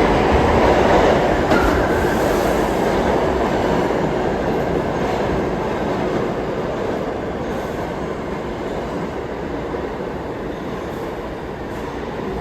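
New York City subway train rumbling along the rails through a station, loud at first and slowly fading as it moves away.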